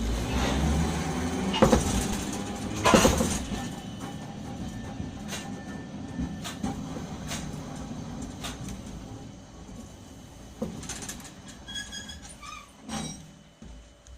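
Nagasaki Electric Tramway 370-series streetcar pulling away and running, its motor and wheels rumbling on the rails, the rumble loudest at the start and easing off. Two loud clanks from the wheels on the track come about two and three seconds in, with lighter clicks after.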